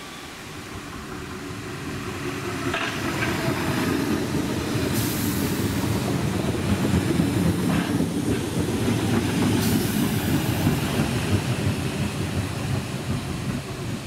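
A Southern electric multiple-unit train passing close along the platform. The rumble of its wheels on the rails builds up, holds through the middle with clatter over the rail joints, then eases off.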